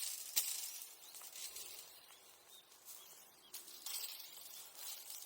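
Charcoal embers from a bonfire clinking with a glassy ring: two crisp clinks right at the start, then fainter crackling ticks over a high hiss.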